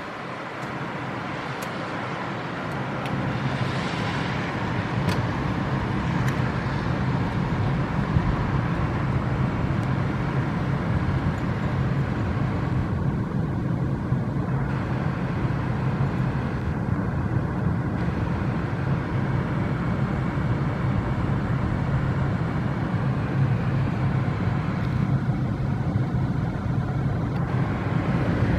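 Car driving, heard from inside: steady engine and road hum that builds over the first few seconds as the car picks up speed, then holds steady.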